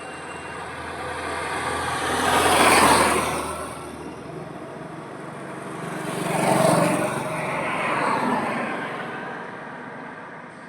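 Road vehicles passing on a highway, each one swelling to a rushing peak and fading: one passes about three seconds in, and another comes by about seven seconds in, with a smaller swell just after it.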